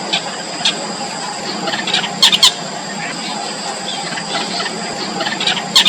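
Yellow bittern chicks at the nest giving short, sharp, squeaky calls in scattered bursts, the loudest pair about two and a half seconds in and another near the end, over a steady background hiss.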